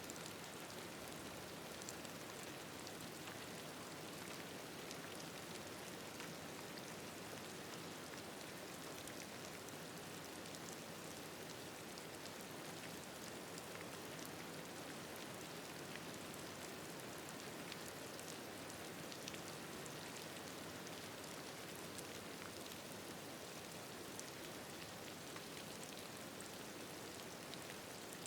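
Gentle, steady rain with soft patter of individual drops.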